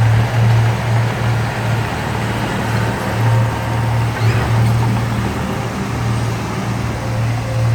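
Heavy construction machine's diesel engine running, a steady low drone that swells and dips slightly.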